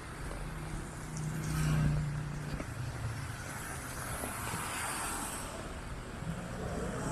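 Street traffic: a car's engine hum swells about two seconds in and fades as it passes, over a steady wash of traffic noise.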